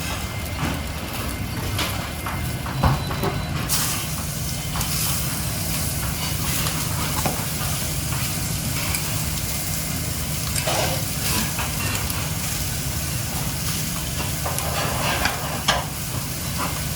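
Food sizzling and frying in a hot pan, with occasional short clicks and knocks of utensils, over a steady low hum. The sizzle grows louder about four seconds in.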